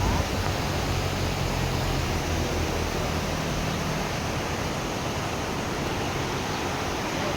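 Steady rushing of water, an even hiss without breaks.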